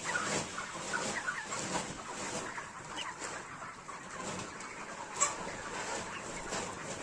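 A flock of broiler chickens, about 40 days old, clucking and calling all at once, many short overlapping calls. A sharp click about five seconds in.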